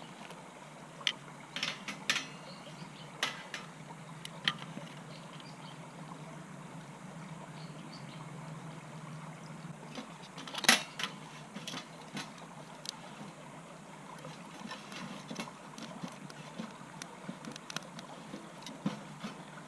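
Wood fire in a metal fire pit: scattered clicks and light metallic clinks over a low steady hum, with one sharp knock about ten and a half seconds in.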